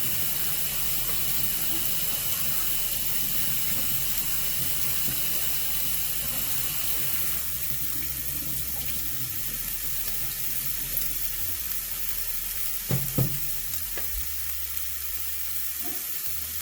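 Chicken sizzling on a hot grill, a steady hiss, with two light knocks about thirteen seconds in.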